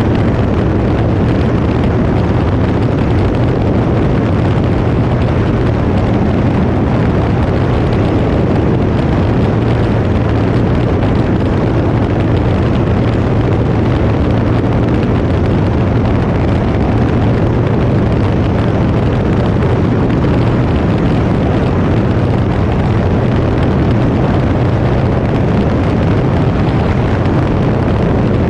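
Cirrus SR20 single-engine piston aircraft's engine and propeller droning steadily in cruise, with a constant low hum under a dense rushing noise.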